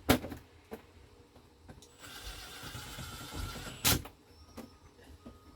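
A sharp knock on the dash panel, then a cordless drill/driver runs for about two seconds with a faint whine while driving a screw, and stops with a sharp click.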